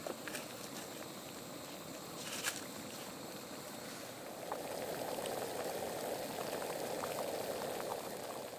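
A pot of liquid bubbling at a boil, growing louder about halfway through and easing off near the end, with a few faint ticks over it.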